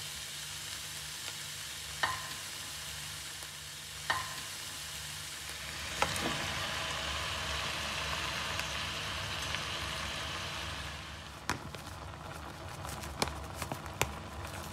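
Beef, onions and tomatoes sizzling in a hot pan, with sharp clicks now and then from a utensil or food hitting the pan. The sizzle grows louder about six seconds in and eases off about four seconds later.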